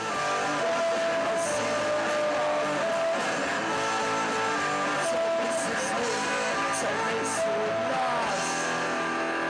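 Rock music with guitar: held notes that bend in pitch over a band, with cymbal crashes now and then.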